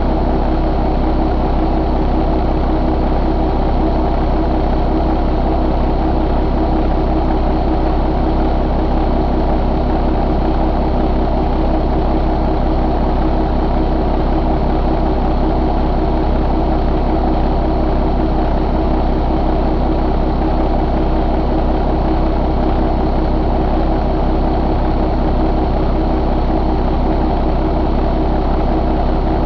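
Paccar MX13 inline-six diesel engine idling steadily, with no change in speed.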